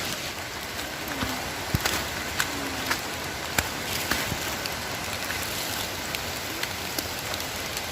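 Steady hiss of rain mixed with the rush of the waterfall, with scattered sharp ticks of drops.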